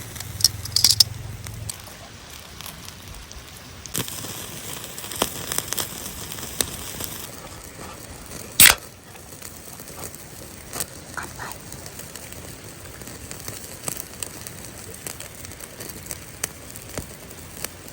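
Wood fire crackling in a fire-pit stand, with scattered sharp pops and one loud pop a little before halfway through.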